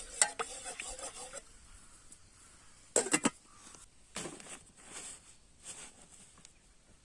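Cooking utensils handled by hand: light clinks and scrapes, then a quick run of loud sharp knocks about three seconds in, followed by a few softer swishing scrapes.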